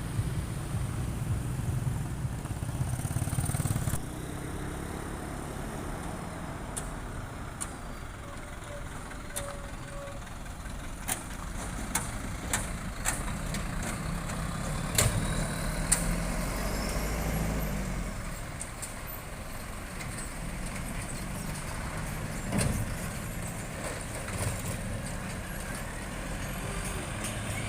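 Heavy truck engine running at low revs, with a string of sharp clicks or knocks midway.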